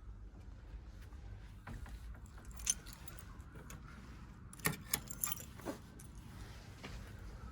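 Keys jingling, with a few sharp metallic clicks over a low steady rumble.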